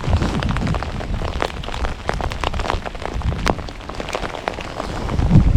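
Heavy rain falling, with many drops pattering close to the microphone over a low rumble that grows louder near the end.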